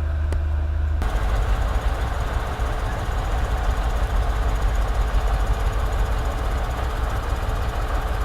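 Heavy diesel machinery running: a steady low engine drone that switches abruptly about a second in to a harsher, rattling machine sound.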